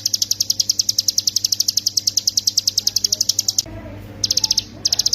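Ciblek gunung, a mountain prinia, singing its rapid 'ngebren' trill: a high, dry rattle of about fourteen evenly spaced notes a second. The trill breaks off about three and a half seconds in and comes back as a short burst near the end.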